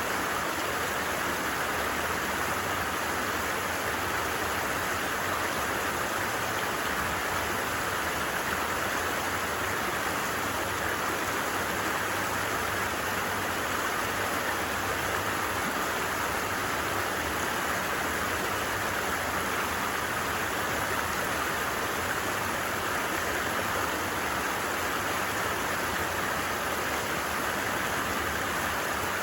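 Creek water running steadily: an even, unbroken rush of flowing water.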